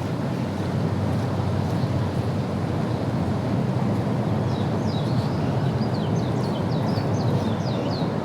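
Steady low rushing noise, like wind on the microphone. About halfway through, a bird calls a quick run of short, high, falling chirps, several a second.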